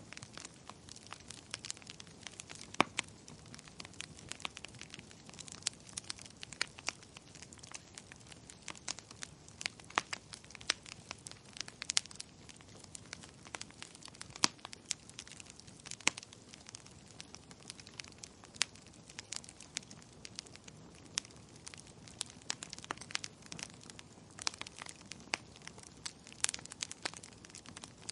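Wood fire in a fireplace crackling, with irregular sharp pops and snaps over a soft steady hiss; one of the loudest snaps comes about three seconds in.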